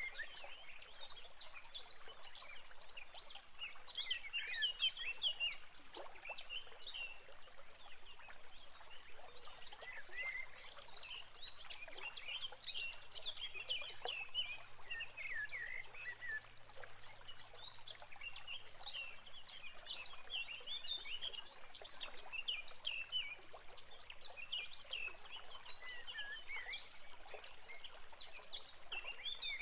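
Many short, high chirps and twitters from small birds, coming thick and fast, with faint crackling clicks among them, picked up by the nest-box microphone.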